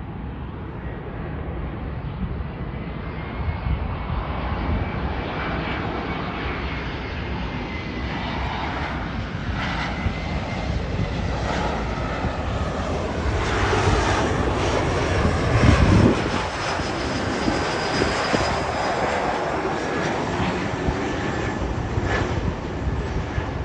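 Twin GE CF34 turbofan jet engines of an Embraer E175 airliner passing on arrival: a steady jet rush with a thin high whine, growing louder to a peak about two-thirds of the way through, then easing off.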